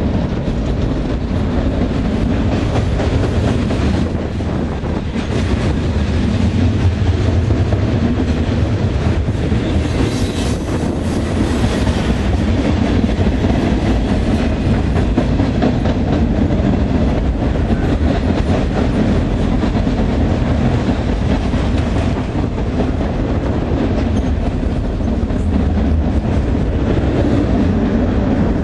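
A freight train's cars rolling past close by: a steady heavy rumble with wheels clattering over the rail joints, and a brief brighter metallic hiss about ten seconds in.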